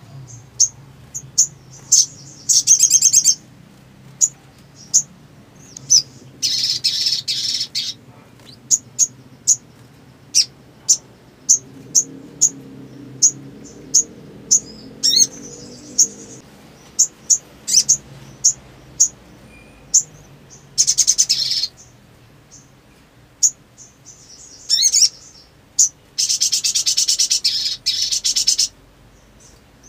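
Sogon, a sunbird, singing energetically: a run of short, sharp high chirps broken by several loud, rapid chattering trills of a second or two each, the longest near the end.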